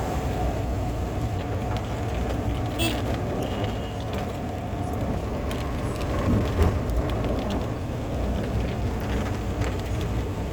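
Steady low rumble of a moving vehicle, with a few faint clicks and knocks over it.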